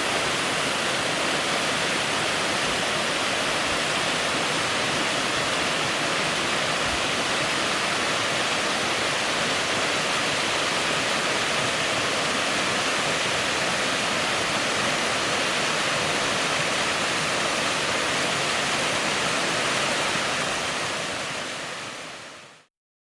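Spring water rushing and splashing in a steady, even roar of falling water that fades out over the last couple of seconds.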